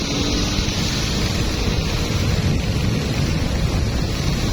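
Small boat underway on a river: a steady low rumble of wind buffeting the microphone mixed with rushing water and the boat's engine running.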